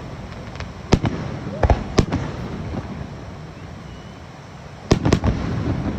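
Aerial fireworks shells bursting: about half a dozen sharp bangs with echoing tails, several in the first two seconds, a lull, then a quick pair near the end.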